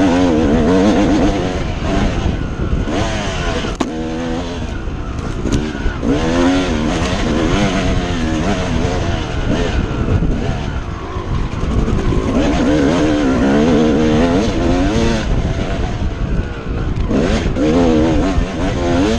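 Yamaha YZ250 two-stroke dirt bike engine being ridden hard, its pitch rising and falling again and again as the rider revs up and backs off the throttle, over a steady low rumble.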